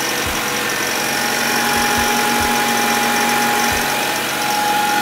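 Honda Accord's 2.2-litre four-cylinder engine idling steadily, heard from the open engine bay with a few low thumps. It is running to bleed air from the cooling system through a funnel in the radiator filler neck.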